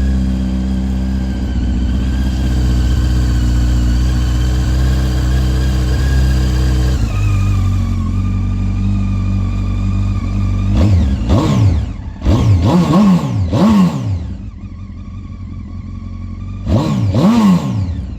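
Honda CB900F air-cooled inline-four engine idling steadily, then blipped on the throttle four times in quick succession, each rev rising and falling straight back. It settles to idle, then is blipped once more near the end.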